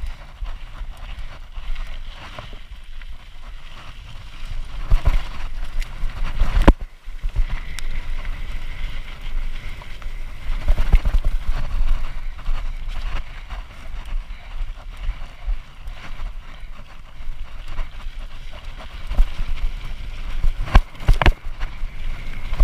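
Hardtail mountain bike rolling downhill over a loose dirt and rock trail: tyre and frame rattle under a low rumble of wind on the microphone, with sharp knocks from bumps about seven seconds in and again near the end.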